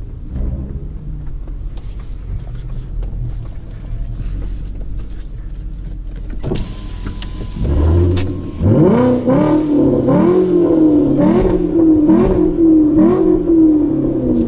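VW Passat W8's 4-litre eight-cylinder engine through a custom Guerrilla exhaust, running at a steady low drone, then revved in about six quick throttle blips from about nine seconds in, each rising sharply and falling back.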